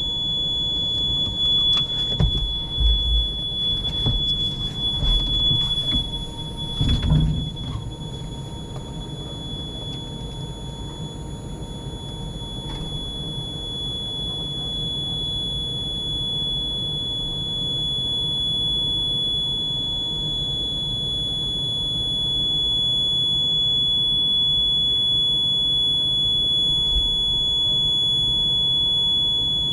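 JCB Pothole Pro running, heard from inside the cab: a low steady engine rumble under a constant high-pitched whine. A run of knocks and clunks comes in the first seven seconds or so, then the sound settles to the steady run.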